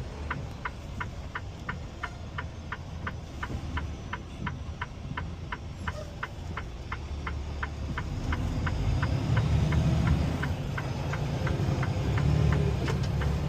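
Turn-signal indicator ticking steadily, about three clicks a second, inside a semi truck's cab, over the low rumble of the truck's engine and road noise. The rumble grows louder about two-thirds of the way through.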